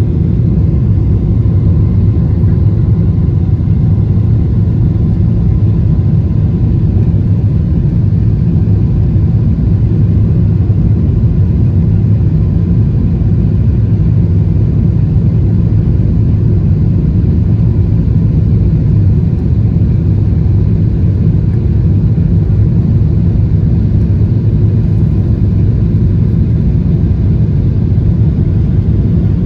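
Airplane noise: a loud, steady low rumble of engines and rushing air, with a faint steady whine above it and no change in pitch or level.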